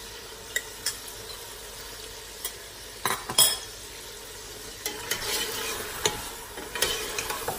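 Mutton frying in oil in a stainless steel pressure cooker, sizzling steadily. Chopped tomatoes are spooned in from a bowl, with a few sharp clinks about three seconds in, and from about five seconds in a wooden spatula scrapes and stirs the pot.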